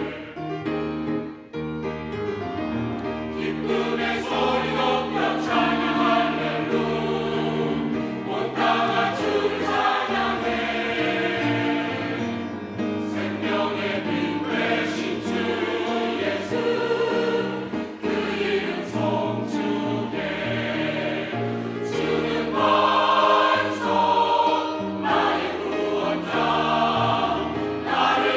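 Church choir singing an anthem, many voices together in sustained, shifting chords.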